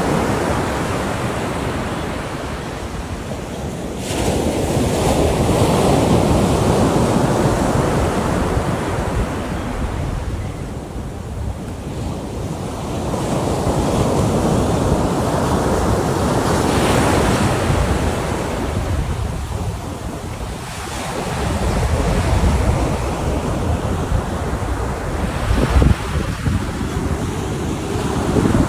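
Ocean surf breaking on a beach, swelling and falling back every several seconds, with wind buffeting the microphone.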